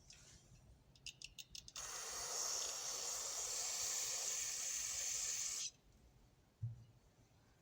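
Aerosol spray can, most likely carburetor cleaner, spraying in one steady hiss for about four seconds, used to clean old grease off ratchet parts. Just before it comes a quick run of sharp clicks, and near the end a single dull knock.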